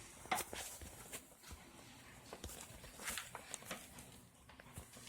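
A small pet's claws tapping and scratching irregularly on a surface, with a sharper knock shortly after the start.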